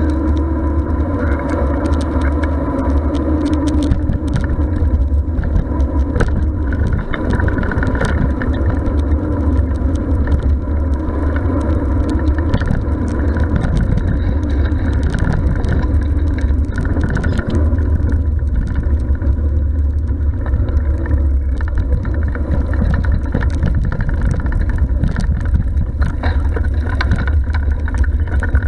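Steady wind rumble on the microphone of a camera riding on a moving bicycle, mixed with tyre and road noise.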